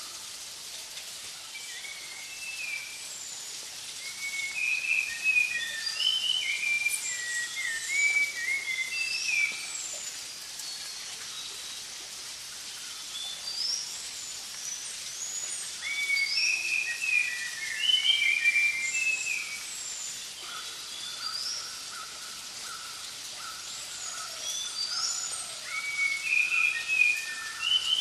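Several forest birds calling and singing: overlapping short chirps and whistled phrases in bursts over a steady high hiss. From about two-thirds of the way through, an evenly repeated lower note joins in.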